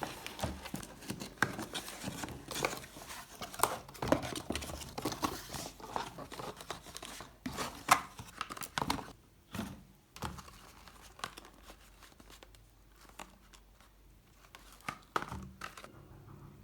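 Crinkling and tearing handling noise, as of a wrapper being pulled open: dense irregular crackles for about ten seconds, then only a few scattered ones near the end.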